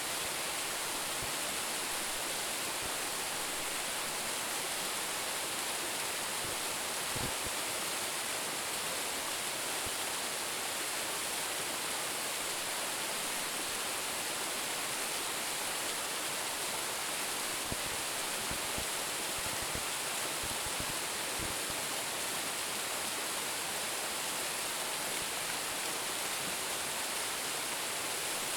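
Steady rush of a waterfall of about 10 m, water pouring and splashing without a break.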